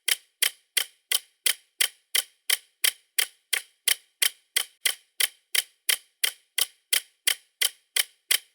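Ticking sound effect, about three even ticks a second, with dead silence between the ticks.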